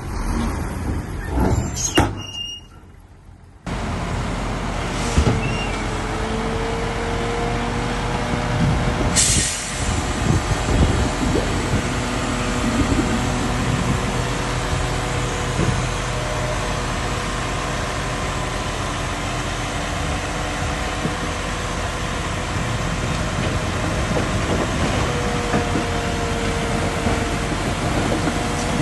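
A heavy diesel bulldozer runs steadily at work, with faint held whining tones over the engine. There is a short high hiss about 9 seconds in. Near the start the sound drops away briefly, then comes back.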